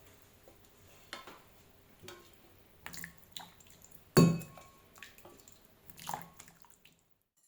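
Bowl and kitchen utensils clinking and knocking as ramen is dished up, in scattered separate strikes. The loudest is a heavier knock about four seconds in. The sound cuts off to silence near the end.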